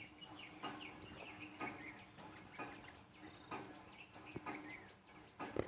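Faint bird chirps and calls, with soft knocks about once a second.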